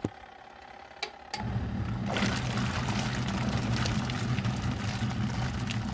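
Portable washing machine's wash motor humming while the agitator churns soapy water. About a second in, the motor pauses, there are two clicks, and it starts up again.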